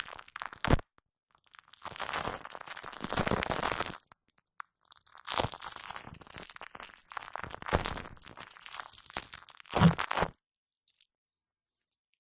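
Shaving foam being squished on a microphone, making close, crackly squelching in about four bursts, the last one short and loudest.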